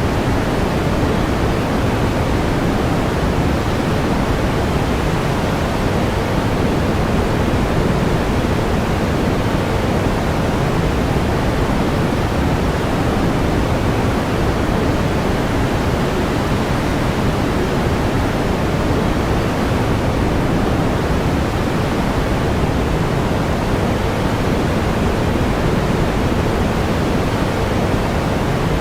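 Steady pink noise: an even, unchanging hiss weighted toward the low end, with no breaks or events.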